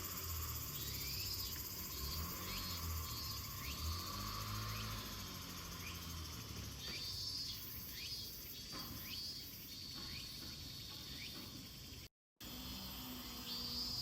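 Outdoor insect chorus: crickets chirping in repeated pulses over a low rumble. The sound cuts out briefly about twelve seconds in.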